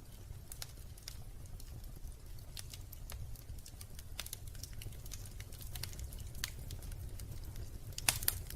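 Wood fire in a fireplace crackling: irregular small pops and snaps over a low steady rumble of the flames, with a couple of louder snaps near the end.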